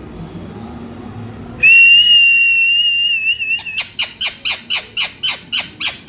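Pet parrot whistling: one long, steady, high whistle that wavers at its end, then a quick run of short falling whistle notes, about four a second.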